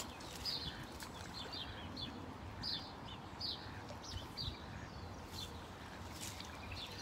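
Small birds chirping: a scattered string of short, high chirps, thinning out after about four and a half seconds, over a faint, steady low background rumble.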